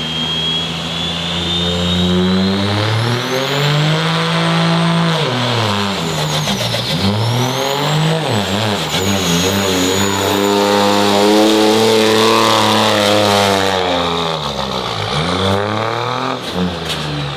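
Turbocharged diesel pickup truck at full throttle pulling a weight sled: the turbo's high whistle climbs in pitch over the first few seconds while the engine revs rise and fall several times, dropping sharply about halfway through and again near the end.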